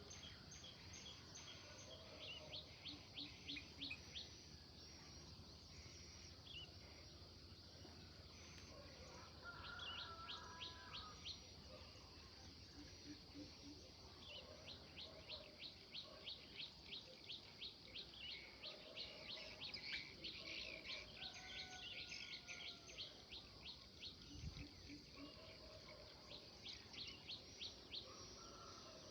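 Songbirds chirping faintly: one bird repeats quick high chirps in runs of several seconds, several notes a second, while other birds give scattered lower calls, over a steady high hiss.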